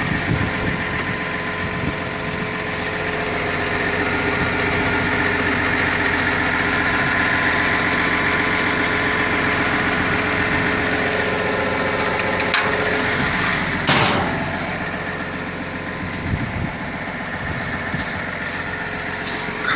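Caterpillar 320 long-reach excavator's diesel engine running under hydraulic load, its level rising and holding for several seconds. Two sharp knocks come past the middle, the second the loudest, and then the engine settles back lower.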